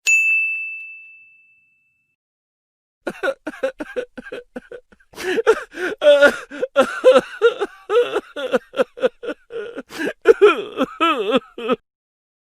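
A single bright ding, one clear tone fading out over about two seconds. After a second of silence, a long run of rapid, high-pitched, voice-like chatter with quickly bending pitch follows, louder than the ding, and stops shortly before the end.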